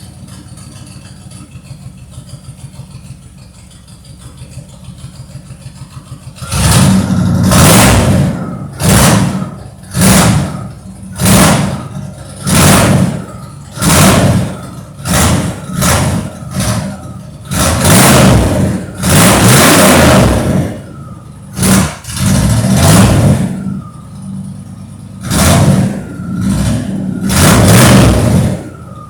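Ford 351 Windsor small-block V8, freshly cold-started, idling steadily for about six seconds, then revved again and again in short throttle blips, around fourteen in all, some held for a second or two, dropping back to idle between them.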